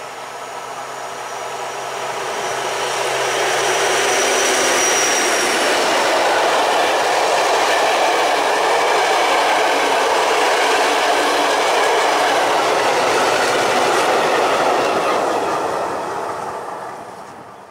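Newag 6Dg diesel locomotive passing at line speed, its engine hum heard in the first few seconds. A train of vintage passenger coaches then rolls by, the wheel and rail noise building, holding steady, and fading away near the end.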